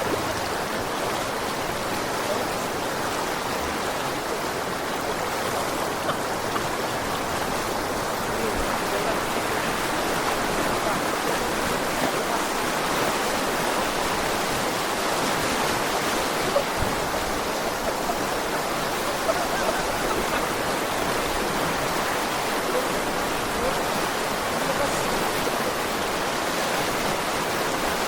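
Fast-flowing water rushing steadily, the sound of a strong stream current.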